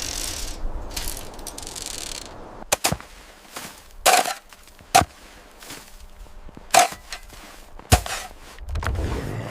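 Five sharp cracks or snaps at irregular intervals over a faint hiss.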